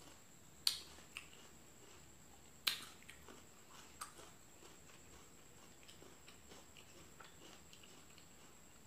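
Mouth clicks and lip smacks of someone chewing with closed lips. There are two sharp clicks in the first three seconds, then fainter ticks.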